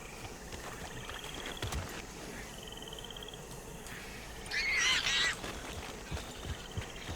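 A single loud animal call a little past halfway, under a second long, over a steady background with faint high trills repeating every second or so.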